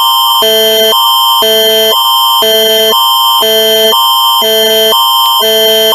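Canadian Alert Ready (NAAD) emergency attention signal: two electronic chords alternating about twice a second over a steady high tone, sounding the start of an emergency alert broadcast.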